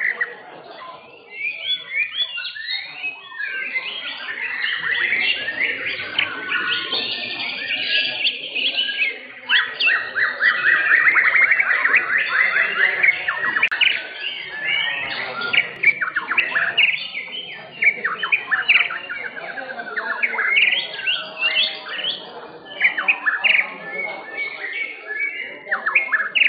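White-rumped shamas (murai batu) singing: dense, varied whistled phrases with several songs overlapping, and a long rapid trill from about ten to thirteen seconds in.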